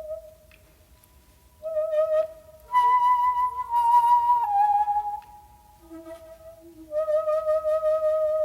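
Solo shakuhachi bamboo flute playing a slow phrase of single notes: a short note, a higher note that steps down, a soft low note, then a long held note near the end.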